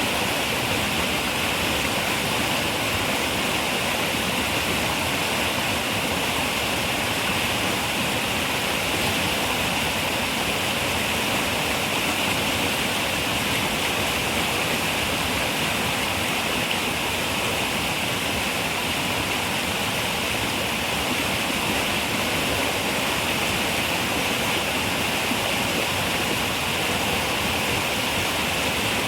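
River water running steadily over rocks, a constant rushing hiss with no breaks or changes.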